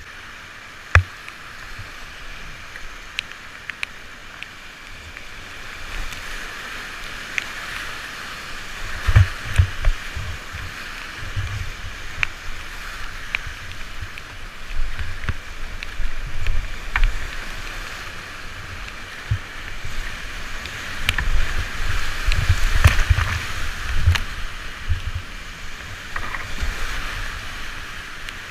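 Steady rush of whitewater on a fast moorland river from a kayak running it, with occasional sharp splashes. Twice, about a third of the way in and again past two thirds, heavy low rumbling buffets the microphone.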